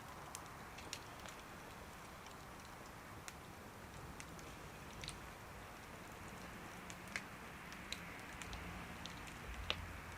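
Wood fire crackling in a small wood stove: a faint steady hiss with sharp pops scattered irregularly through it, the loudest pop near the end.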